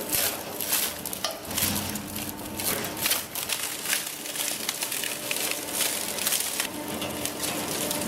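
UNTHA RS40 industrial shredder's cutter shafts tearing through material: dense, irregular crunching and crackling over a steady machine hum.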